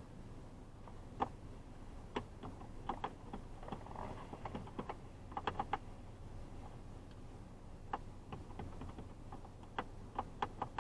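Low hum inside a truck's cab, broken by irregular light clicks and ticks, single or in small clusters, more of them near the end.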